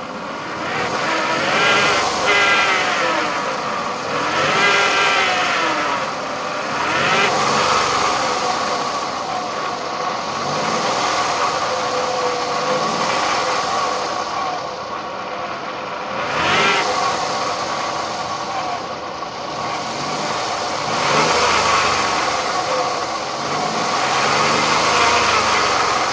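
2000 Honda Insight's three-cylinder engine running, with a buzzing, kazoo- or duck-call-like tone from the engine bay that swoops up and down in pitch several times. The owner suspects a bad belt pulley or tensioner.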